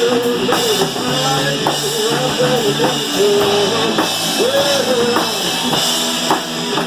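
Rock band music: drum kit and guitars playing under a bending melodic line.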